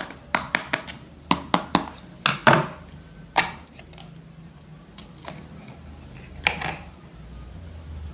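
Wooden toy knife clacking against wooden play-food pieces on a cutting board: a quick run of sharp hard clicks, some with a short scrape, then after a pause one more scraping knock.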